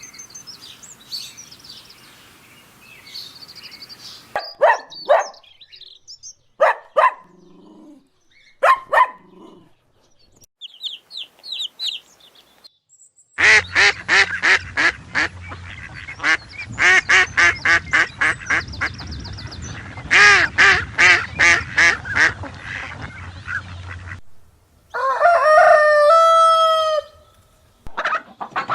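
A run of poultry calls: faint birdsong, then a few honking calls, then a long stretch of rapid, repeated fowl calls, and a rooster crowing near the end.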